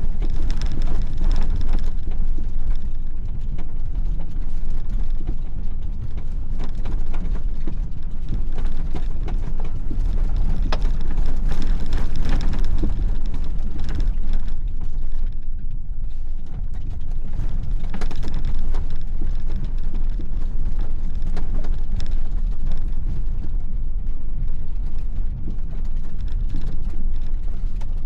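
Inside the cab of a V8 4x4 driving off-road: a steady low engine and drivetrain rumble under constant rattling, clicking and creaking of the body and loose gear over rough ground.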